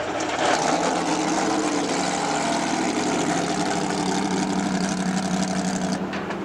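Power boat engine running at a steady pitch, with no revving. Its higher tones drop off abruptly about six seconds in, leaving a duller hum.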